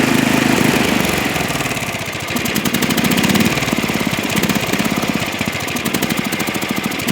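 Briggs and Stratton 8 HP single-cylinder engine on a 1972 Canadiana snowblower running. It holds a steady fast speed for about a second, then drops to a slower, uneven run whose level swells and sags. This is a sign of the carburetor issues the owner names, a slow leak that makes the high-speed mixture screw need fiddling.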